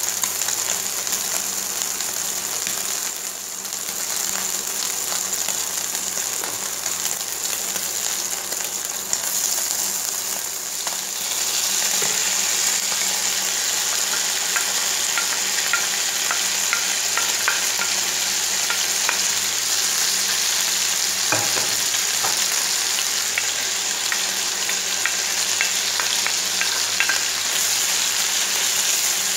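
Diced chicken breast sizzling in oil in a nonstick frying pan. Partway through, chopped onion and peppers are scraped in from a plate with a wooden spatula and the sizzling gets louder, with light clicks and scrapes of the spatula as it is stirred. A steady low hum runs underneath.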